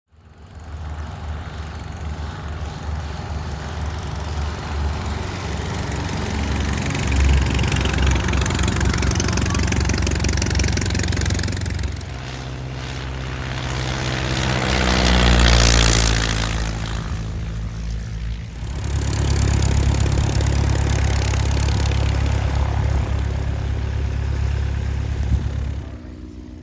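Piston engine and propeller of a vintage light aircraft running steadily, changing abruptly a few times. About midway an aircraft passes close, swelling to its loudest and then fading.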